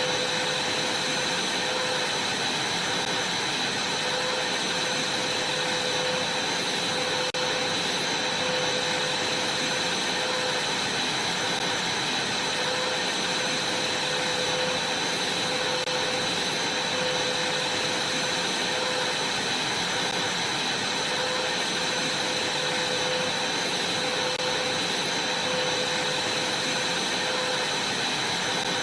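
Vacuum cleaner running steadily, a constant rushing hum with a high whine over it.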